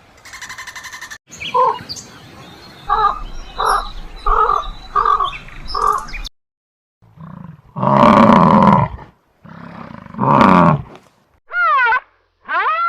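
A string of different animal calls, one after another: a run of about six short, evenly spaced pitched calls, then two loud, long roar-like calls, then two short arching cries near the end.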